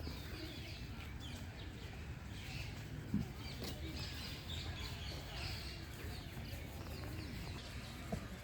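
Several birds chirping in short, quick calls over a low steady rumble, with a sharp knock about three seconds in and a lighter one near the end.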